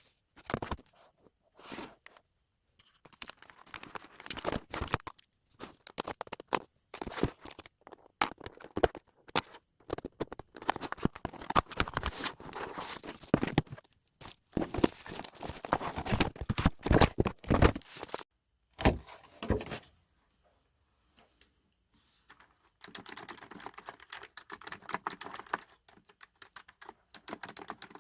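Clicks, clacks and rustling of things being handled at a desk, in irregular spells, then a pause of a few seconds; after it, a fast, even run of typing on a computer keyboard.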